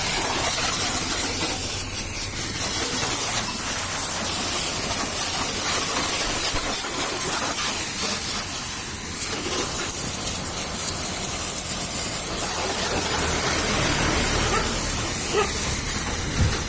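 High-pressure washer (HTP pump) jet spraying water in a steady hiss, with a couple of brief knocks near the end.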